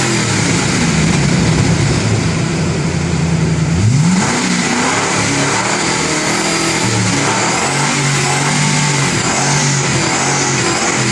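Ford Cougar XR7 engine heard through an aftermarket exhaust with an 18-inch resonator and high-flow mufflers, being revved. The pitch holds steady, rises sharply about four seconds in, then wavers up and down.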